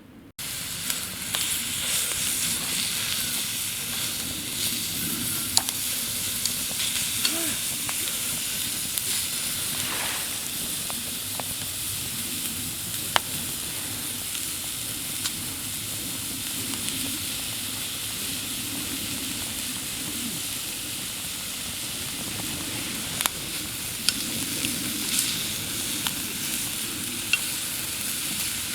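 Meat frying in a pan, sizzling steadily with a few sharp pops.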